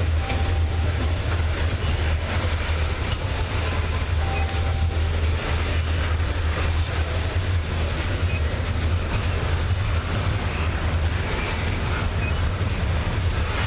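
Diesel-electric freight locomotives running steadily: a constant low engine hum with no rhythm of wheels on rail joints.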